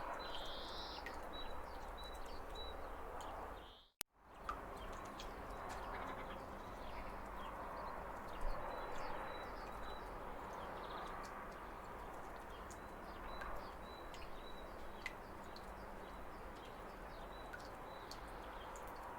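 Steady rush of a small waterfall with birds chirping over it in short repeated notes. About four seconds in the sound briefly drops out and comes back with a click.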